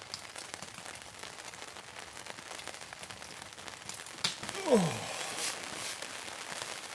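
Steady rain pattering with scattered light ticks. About two-thirds through, one short voice-like sound drops quickly in pitch.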